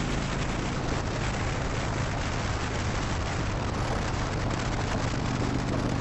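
Steady wind rush on a helmet-mounted microphone over a Harley-Davidson Dyna Wide Glide's 103 cubic-inch V-twin running steadily at road speed through its Vance & Hines slip-on exhaust.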